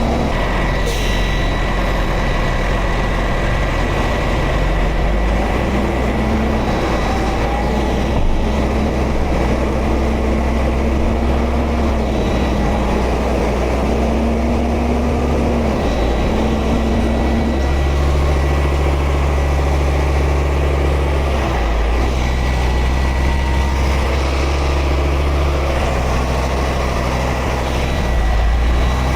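A heavy truck's diesel engine running steadily, with a thin, steady high whine over it. The engine note changes about two-thirds of the way through.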